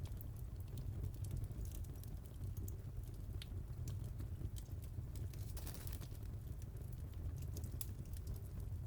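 Wood fire burning with a steady low rumble and scattered sharp crackles and pops, with a brief hiss a little past the middle.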